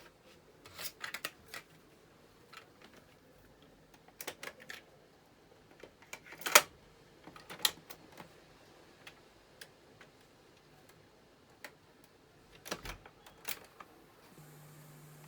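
Scattered mechanical clicks and clunks of a Panasonic RX-FT590 boombox's buttons and switches being worked by hand, coming singly and in short clusters, the loudest about halfway through. A low steady hum starts near the end.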